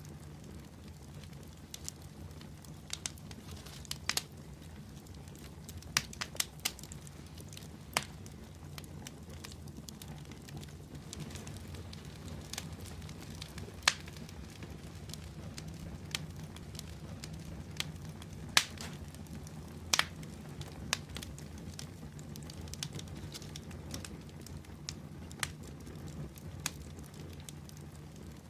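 Wood fire burning in a fireplace, with a steady low rumble and irregular sharp crackles and pops, a dozen or so standing out above the rest.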